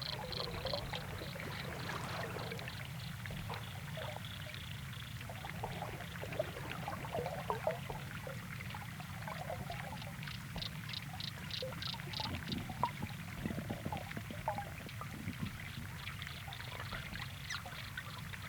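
Water gurgling and trickling over a steady low hum, with small bubbly blips. Twice, near the start and about ten seconds in, a run of high ticks about four a second.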